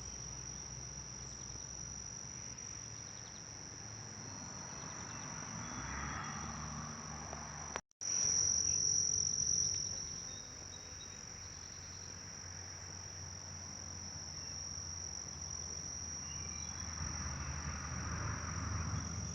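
Insects trilling in one steady, unbroken high-pitched note, with a brief dropout about eight seconds in where the recording cuts.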